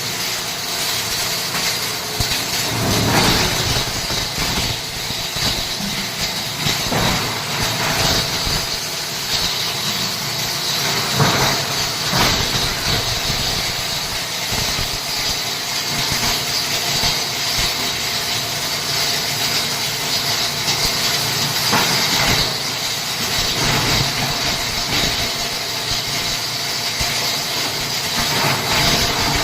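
Plastic scrap grinder machine running steadily with a loud hissing whine, with a few louder surges, about 3, 7, 11 and 22 seconds in.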